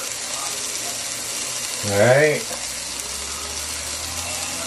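Steady sizzling hiss of chicken frying in a pan on the stove. About two seconds in comes a short, louder vocal sound from a man, rising then falling in pitch.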